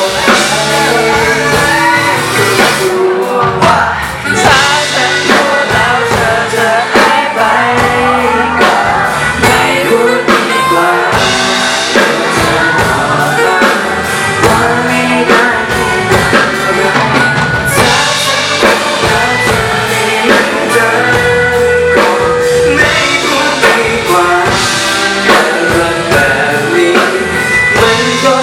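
Live band performance of a pop song: a singer's voice over drums and backing instruments, loud and continuous.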